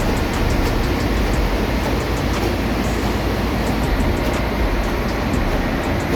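Steady, loud machinery noise in a ship's engine room: a deep rumble under a dense even roar, with faint light ticking high above it.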